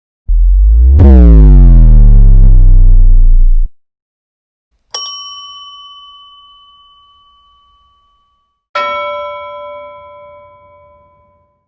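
Three stock sound effects one after another. First, a loud, low, buzzy tone that swoops down in pitch and holds for about three seconds. Then a single bright bell ding rings out, and near the end a lower, fuller bell-like chime rings out.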